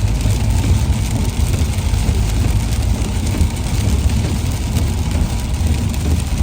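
Car travelling on a highway in rain: a steady low road rumble under an even hiss of rain and tyre spray.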